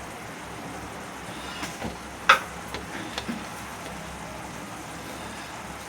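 Steady hiss of onion-and-spice masala frying in oil in a kadhai, with a few sharp clinks of a spoon against the pan; the loudest clink comes about two seconds in.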